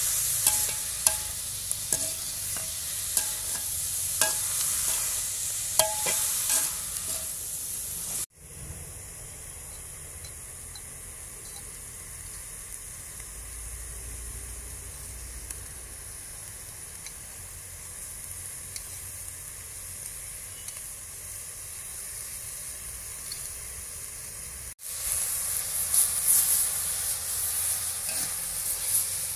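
Mushrooms frying in a metal wok, sizzling as a metal spatula stirs and scrapes them, with sharp clinks of the spatula against the pan. Partway through it drops to a fainter steady sizzle for about sixteen seconds, then the loud sizzling and stirring return near the end.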